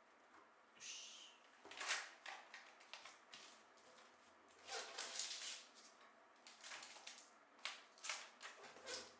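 Faint, irregular clicks, taps and rustling of objects being handled, with a longer rustle about five seconds in.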